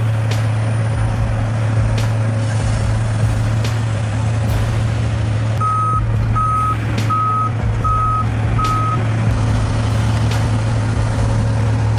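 Heavy truck engine running with a steady low drone, its reversing alarm sounding five evenly spaced beeps about halfway through as it backs up.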